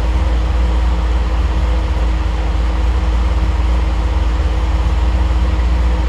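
Triumph TR8's 3.5-litre Rover V8, warmed up and fuel-injected, idling steadily with a deep even rumble. The electric cooling fan is running alongside it.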